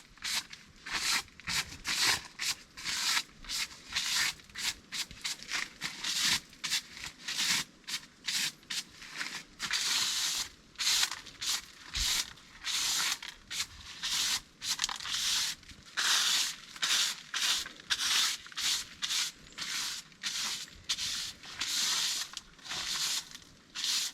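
Broom sweeping in quick, even strokes, about two a second, each a short scratchy swish.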